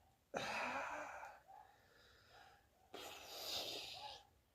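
A man breathing hard from exertion: two long, noisy breaths, the first starting just after the start and the second about three seconds in.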